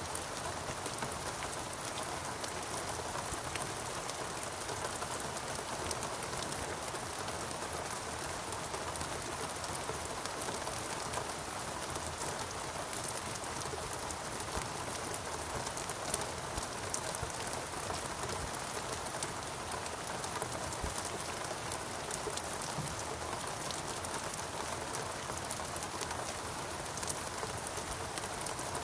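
Steady rain falling in a rainforest, a constant hiss with many fine drop patters throughout.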